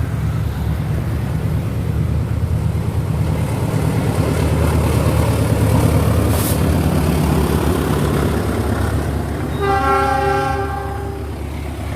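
Diesel locomotive-hauled passenger train passing close by, its engine drone and wheel clatter swelling toward the middle. About ten seconds in, the locomotive sounds one horn blast of about a second and a half, and then the sound falls away.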